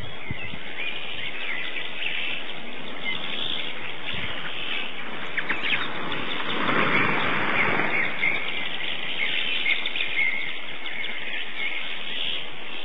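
A group of small birds chirping and twittering continuously. About halfway through there is a brief louder rustling swell.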